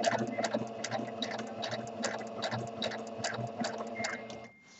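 Sewing machine running steadily for free-motion stitching: a motor hum under an even clicking of the needle, about five stitches a second, stitching through felt-backed canvas. It stops about four and a half seconds in.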